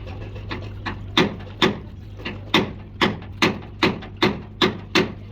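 A hammer striking metal again and again at an even pace, about two and a half blows a second. The first blows are light, then they come hard from just over a second in. A steady low hum runs underneath.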